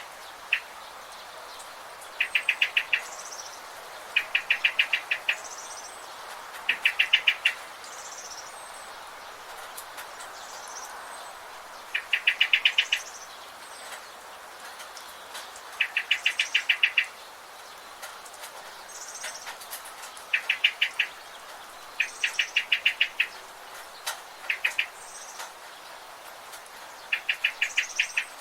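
Birds calling over a steady background hiss: one bird repeats a rapid trill of about eight to ten notes, about nine times, every two to four seconds, with fainter high chirps in between.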